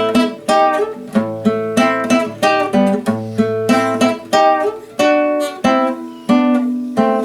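Background song, instrumental break: an acoustic guitar picking a quick run of single plucked notes.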